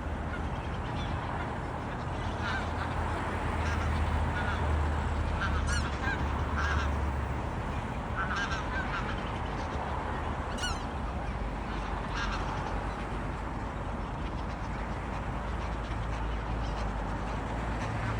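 A flock of wild geese honking: scattered short calls every second or two over a steady hiss and low rumble.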